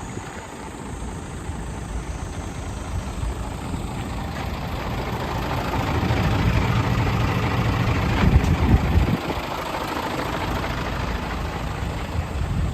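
Hino Ranger dump truck's J08C inline-six diesel engine running, growing louder over several seconds and then dropping back about nine seconds in, before settling into a steady run.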